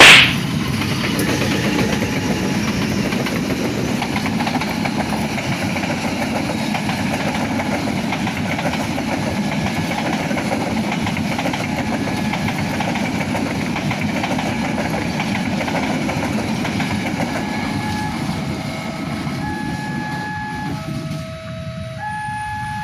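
A train passing at speed: a short loud burst at the start, then a steady rumble and clatter of wheels on the rails that eases off near the end. As it fades, a run of short tones at changing pitches begins.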